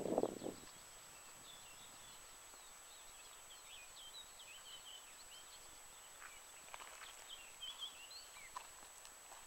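Faint birdsong over a quiet marsh: many short, high chirps and quick twitters, scattered and coming and going, with a few soft clicks between them.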